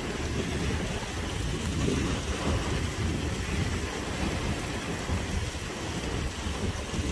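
Steady rushing noise of rain and a hillside stream tumbling over rocks, with a deep, uneven low rumble underneath.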